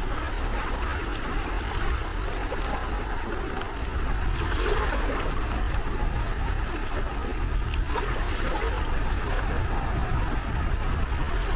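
Gentle sea waves washing and lapping at the shore, a steady noise of water that swells a little about four seconds in, over a constant low rumble.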